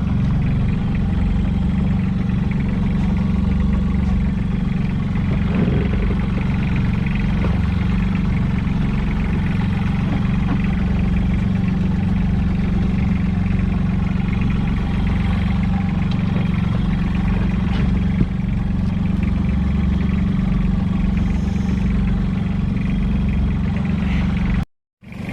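Engine of a small coastal fishing boat running steadily at constant speed, an even low drone with no change in pitch. The sound drops out abruptly for a moment near the end.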